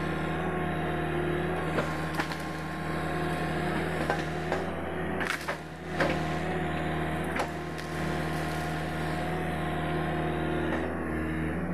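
Sany SY75C excavator's diesel engine running steadily, with sharp cracks and snaps of keranji wood breaking several times, the loudest cluster about five to six seconds in.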